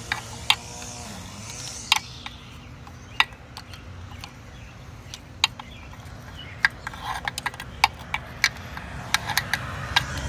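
Irregular sharp metallic clicks and clinks of a wrench working a carburetor mounting nut loose, coming thicker in the second half.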